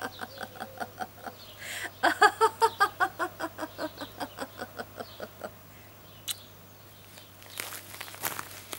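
A woman laughing in a long run of rhythmic pulses, loudest about two seconds in and trailing off after about five seconds. A few sharp clicks and knocks follow near the end.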